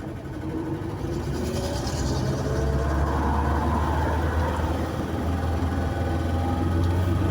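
Car driving, with a steady low drone of engine and road noise.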